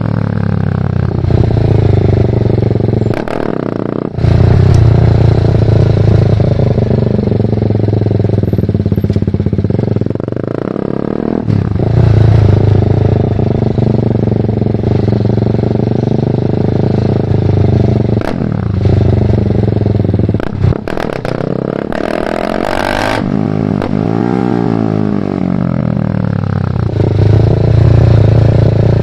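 BMW G310R's single-cylinder engine through a full Mivv aftermarket exhaust, pulling up through the revs with brief breaks for gear changes several times. A short loud rushing noise comes a little past the middle, followed by the pitch falling and rising again.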